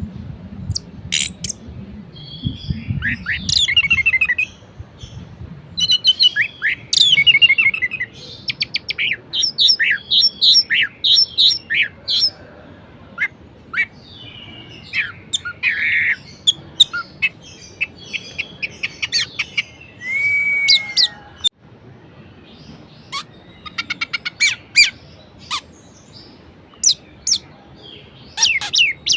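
Orange-headed thrush singing a varied song of quick whistles, trills and sharp chipping notes in short phrases with brief pauses between them, including one longer slurred whistle about two-thirds of the way through.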